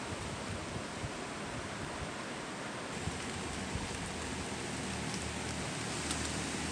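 Heavy rain falling steadily, an even hiss of rain on surfaces with a few sharper drop ticks near the end.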